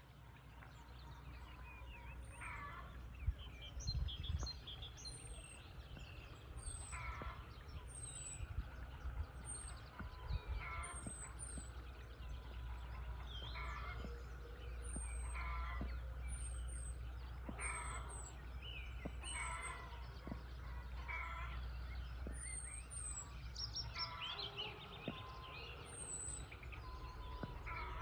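Several birds calling in countryside ambience: a thin, high chirp repeated about once a second, and lower chattering calls every two to three seconds, over a steady low rumble.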